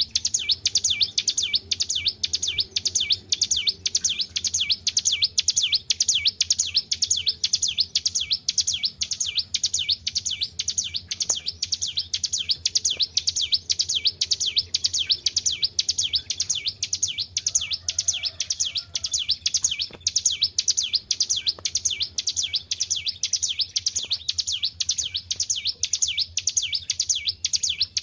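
Ciblek gunung, a mountain prinia, singing non-stop: a fast, even string of high, sharp notes repeated several times a second.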